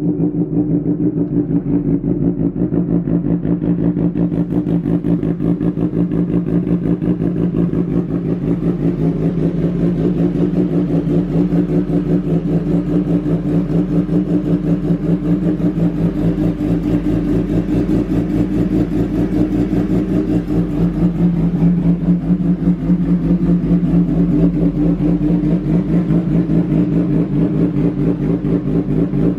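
Motorcycle with an aftermarket exhaust idling steadily, its exhaust pulsing evenly at a constant pitch, slightly louder about two-thirds of the way through.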